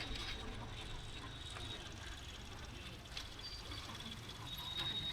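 Low, steady rumble of a motorbike ride through city traffic, with a thin high whine that comes and goes and a few light clicks.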